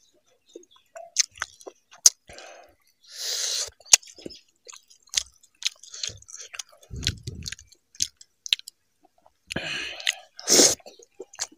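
Wet chewing and lip smacking of a person eating rice, gravy and pork fry by hand, with many short clicks. Two longer hissing sounds come about three seconds in and near the end.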